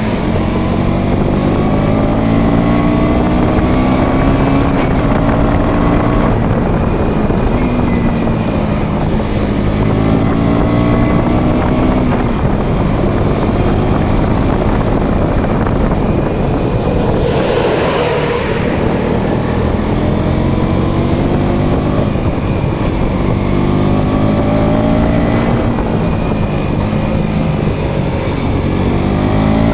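Motorcycle engine running on the road, its pitch climbing under acceleration and dropping back at each gear change, over and over, with wind on the microphone. A brief rush of noise comes about two-thirds of the way through.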